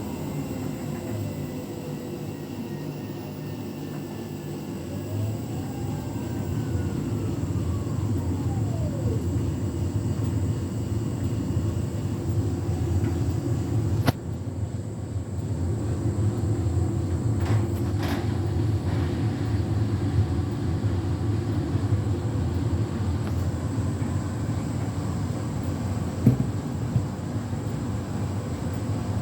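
Beko WTK104121W washing machine spinning in its final 1400 rpm spin cycle: a steady drum-and-motor rumble. Motor whine glides in pitch over the first several seconds, and a sharp click comes about halfway through.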